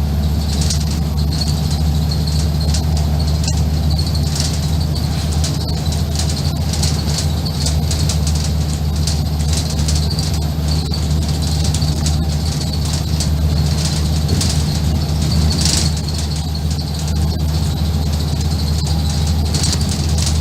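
Scania N230UD bus's diesel engine running steadily, heard from inside the double-decker, with frequent interior rattles and squeaks from the ADL Enviro 400 body over the top.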